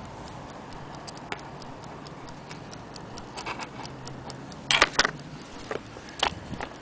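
Vintage Kienzle quartz mantle clock: scattered light ticks and clicks at uneven spacing, with a louder cluster of clicks and knocks about five seconds in.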